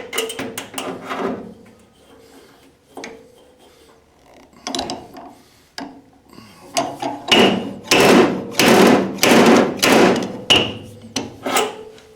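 Repeated sharp metal blows in dent-pulling work on an MGA's stretched steel body panel, each with a short ring. A quick run of lighter hits comes at the start, a few scattered ones follow, then about a dozen heavy, evenly paced blows fill the last five seconds.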